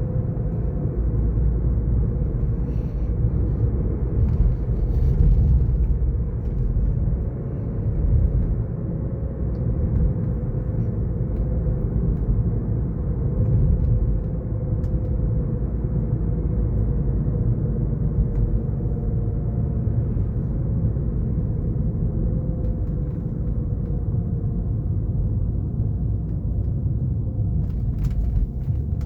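BMW F10 530d xDrive driving, with a steady low drivetrain and road rumble and a faint whine that drifts slightly up and down in pitch. The owner asks whether this is the sound of a failing front differential.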